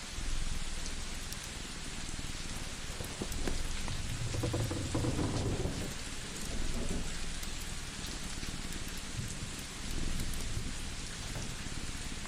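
Steady rain hiss with scattered sharp crackles from a wood fire. A low rumble swells and fades about four to six seconds in.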